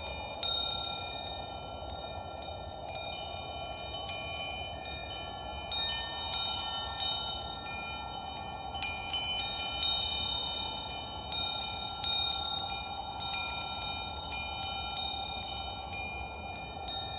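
Wind chimes struck at irregular moments, each several-toned ring carrying on over the next strikes, with the strongest strikes about nine and twelve seconds in. A steady low rushing noise lies underneath.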